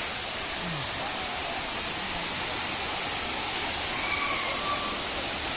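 Steady rushing roar of the Katiki waterfall, an even unbroken wash of falling water.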